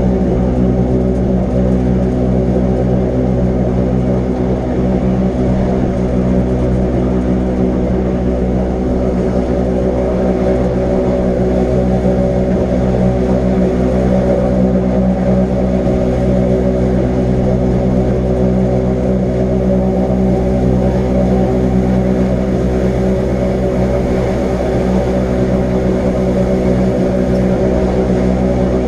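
Electric rack railway train of the Wengernalpbahn running at a steady speed, with a loud, even hum of its drive that holds one pitch throughout.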